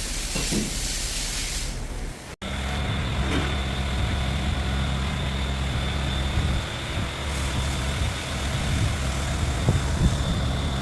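Air hissing for about two seconds, then, after a cut, the steady hum of a machine with a thin high whine over it: workshop equipment running while the engine is lowered out of the car body.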